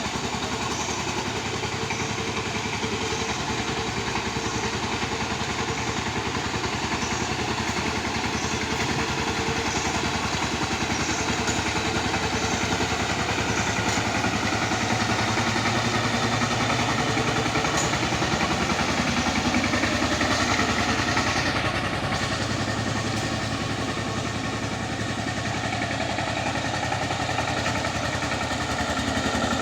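Tractor engine running steadily while cultivating a field, a continuous rapid firing beat that swells slightly louder in the middle and eases back a little after about 22 seconds.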